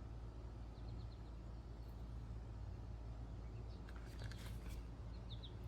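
Quiet outdoor ambience: a steady low rumble with a few faint bird chirps, and a brief rustle about four seconds in.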